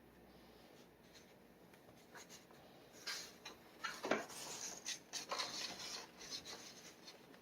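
Steel G nib of a dip pen scratching across paper in a run of short ink strokes, starting about three seconds in.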